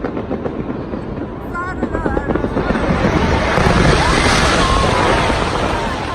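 New Year's Eve fireworks over a large shouting, cheering crowd, the noise swelling a couple of seconds in, with a few whistles heard through it.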